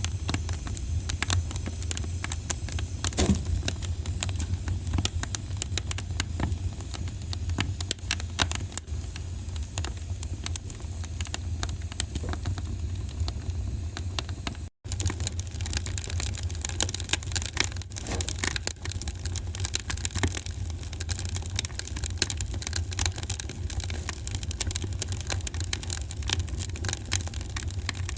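Wood fire crackling in a fireplace: irregular sharp pops and snaps over a steady low rumble. The sound cuts out for an instant about halfway through.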